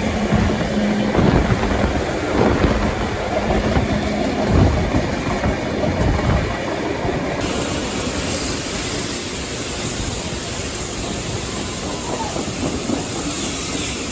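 Steam-hauled passenger train running, heard from on board: rumble and clatter of the carriage wheels on the rails. About halfway through, the hiss suddenly turns brighter.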